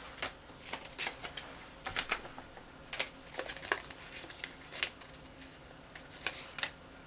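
Paper sticker sheets being handled: irregular light clicks and paper crinkles, a few every second.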